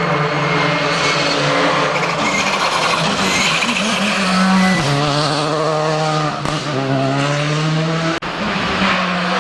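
Rally car's engine at high revs, its pitch wavering, dropping sharply with a gear change about halfway, then climbing again, with tyre squeal.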